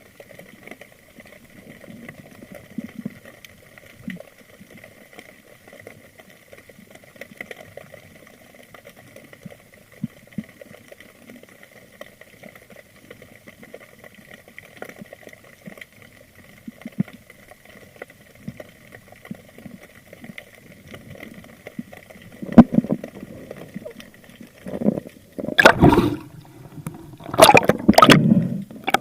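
Underwater ambience with faint scattered clicks and a thin steady tone, then, near the end, several loud gushes of gurgling, splashing water.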